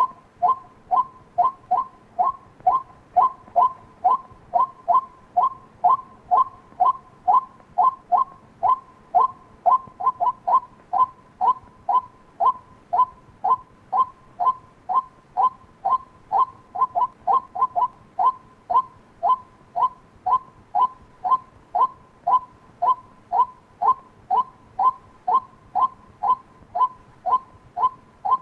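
White-breasted waterhen calling: a single 'kwak' note repeated monotonously, about twice a second, at an even pace.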